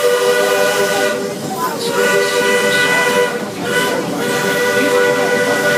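Walt Disney World Railroad steam locomotive's chime whistle blowing three long blasts, each a steady chord of several notes: one ending about a second in, one in the middle, and a longer one near the end, over the hiss and rumble of the moving train.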